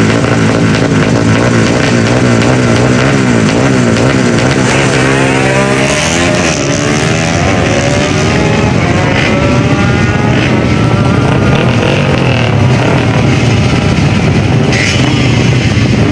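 Drag-bike engine held at high revs at the start line with its pitch wavering, then launching about five seconds in: several rising engine sweeps as it accelerates and shifts up through the gears down the strip.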